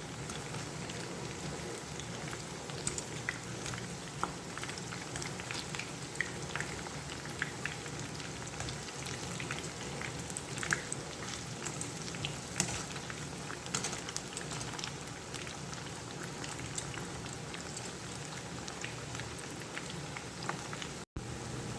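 Batter-coated cauliflower florets frying in hot oil: a steady sizzle with many small pops and crackles.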